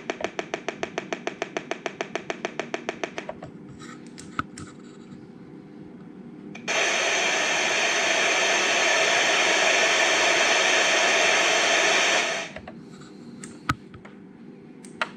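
Pink noise from a Pink Stick XLR signal tester running through a mixing desk channel: a steady, even hiss lasting about six seconds that cuts off suddenly. Before it comes about three seconds of rapid ticking, about eight ticks a second, then a few scattered clicks. Two sharp clicks follow near the end.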